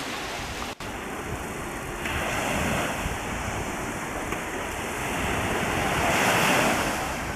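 Sea waves washing onto the shore, with wind on the microphone; a wave surges louder near the end.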